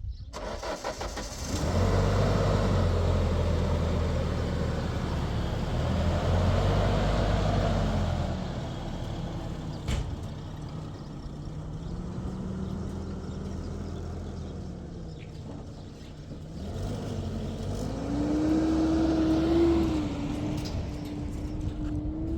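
An engine running, its pitch slowly rising and falling. It gets louder about two seconds in, and a higher steady tone comes in near the end.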